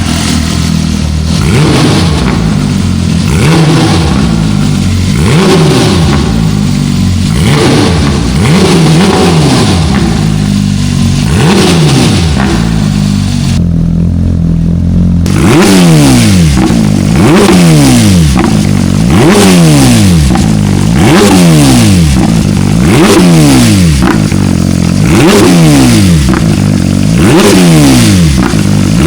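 Porsche 992 GT3 Touring's naturally aspirated flat-six, through a Supersprint Megaphone aftermarket exhaust, revved in short throttle blips in neutral, about once a second, the pitch rising and falling back each time.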